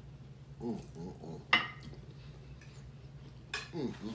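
A single sharp clink of cutlery on a plate about a second and a half in, with short wordless vocal sounds, hums of someone eating, before and after it over a steady low hum.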